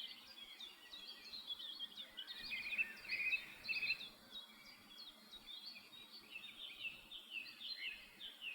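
A bird chirping over and over in rapid, short, high chirps, with a run of lower, stronger chirps a few seconds in and again near the end.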